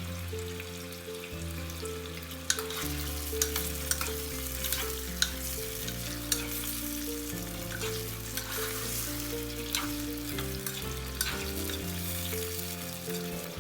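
Oil sizzling and frying in an earthenware ttukbaegi pot while the food is stirred, with the utensil clicking sharply against the pot every second or so.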